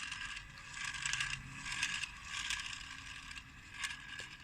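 Toy packaging being handled and worked open: irregular rustling and clicking bursts, with a sharp click near the end.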